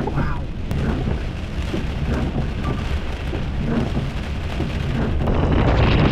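Heavy rain and strong wind of a severe thunderstorm, a constant low rumbling noise that grows louder about five seconds in.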